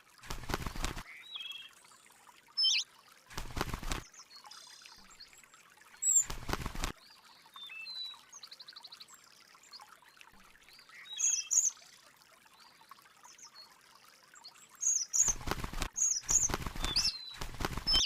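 Small birds chirping with short, high calls, broken by several brief bursts of rustling noise, each under a second long, three early on and three close together near the end.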